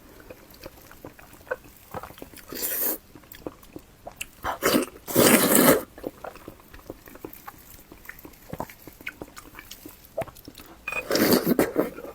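Close-miked mouth sounds of a person eating: chewing and biting with many small wet clicks, and a few louder, longer sounds about a quarter of the way in, around the middle, and near the end.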